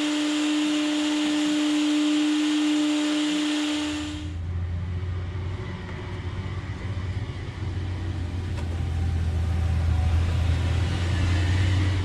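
A vacuum cleaner running with a steady whine, cutting off sharply about four seconds in. A lower, steady rumbling hum follows to the end.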